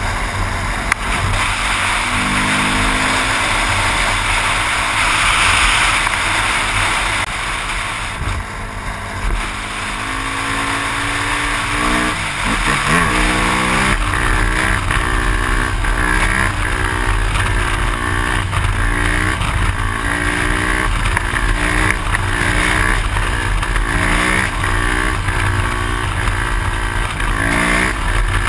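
Yamaha WR400's single-cylinder four-stroke engine running at road speed under heavy wind rush over a helmet-mounted microphone. In the second half the engine note rises and falls over and over, about every second and a half, as the throttle is worked to hold the bike up on its back wheel in a wheelie.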